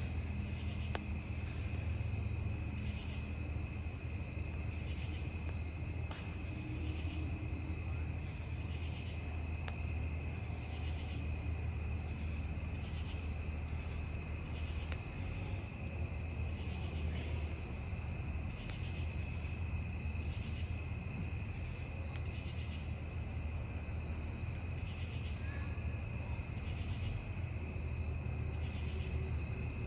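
Crickets chirping in a steady, unbroken trill, with a higher chirp repeating about once a second, over the low rumble of a wood campfire and a few faint crackles.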